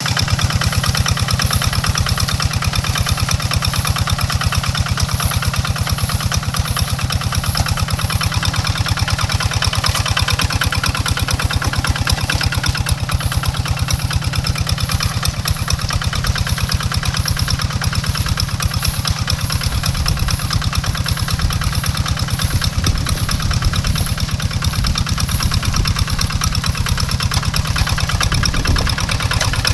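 Tractor engine running steadily with a fast, even firing beat.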